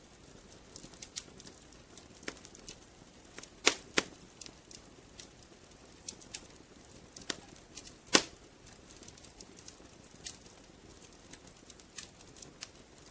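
Wood fire crackling in a fireplace: irregular sharp pops and snaps over a soft hiss, with two louder pops about four and eight seconds in.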